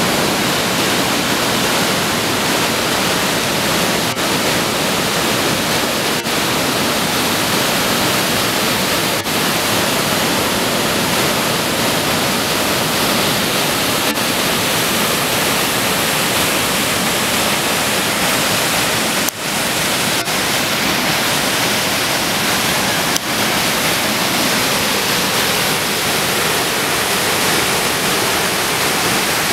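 Aira Force waterfall: a loud, steady rush of falling water, with a few faint clicks and one brief dip in loudness about two-thirds of the way through.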